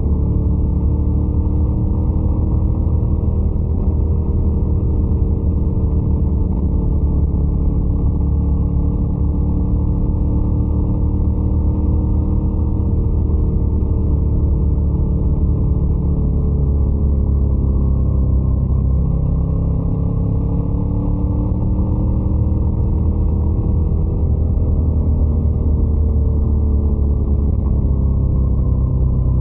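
Scrambler 800 motorcycle's twin-cylinder engine running steadily under way, its pitch drifting gently up and down with small throttle changes.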